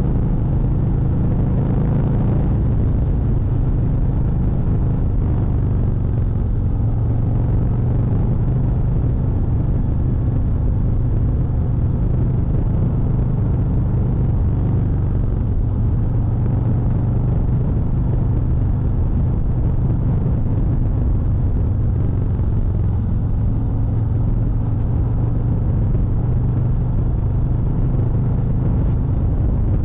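Harley-Davidson Fat Bob 114's Milwaukee-Eight 114 V-twin running steadily with a deep rumble, its engine speed staying fairly even.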